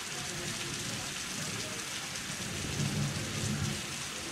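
Steady rain hiss during a thunderstorm, with a low roll of thunder that builds about a second and a half in, is loudest around three seconds, then fades.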